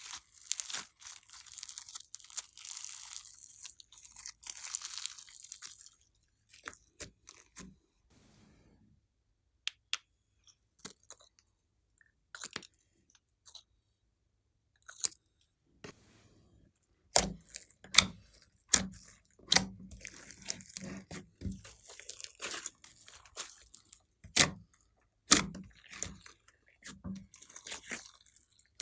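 Hands squishing and kneading slime mixed with clay and glitter. For the first few seconds there is a dense crackling squish, then scattered sharp clicks, and from past the middle a run of louder pops and squelches as the slime is stretched and pressed.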